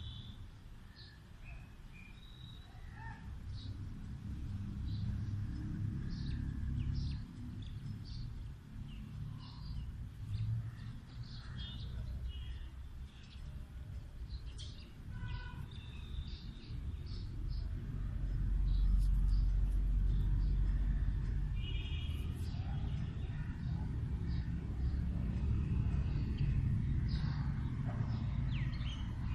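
Small birds chirping now and then over a steady low rumble that grows louder past the middle.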